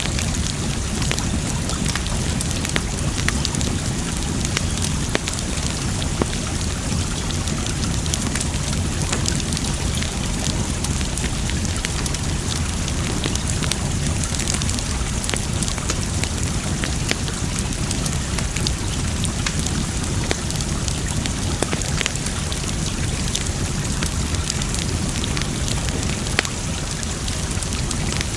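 Wood fire crackling, with scattered sharp pops and snaps over a steady rush of running water.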